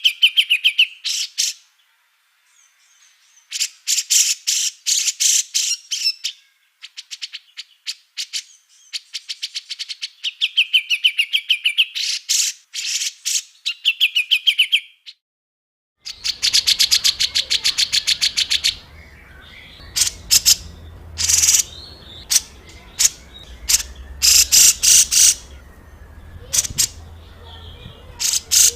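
Small songbirds giving harsh, rapid rattling call trains, the 'tembakan kasar' bursts used as masteran to train caged songbirds: fast strings of high clicks and notes in bursts of a second or two with short gaps. About 16 s in it cuts to another recording with a faint low hum under the calls.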